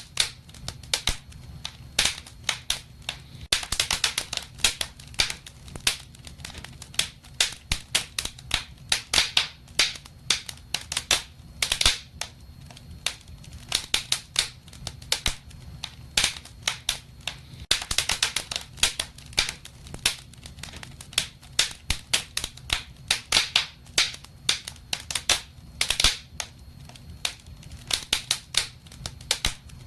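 Wood fire crackling in a fireplace: many irregular sharp pops and snaps, some in quick clusters, over a low steady rumble.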